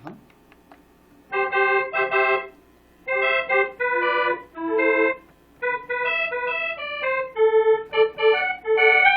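Korg N364 synthesizer keyboard playing a musette accordion voice layered with piano: a phrase of short chords with brief gaps, starting about a second in.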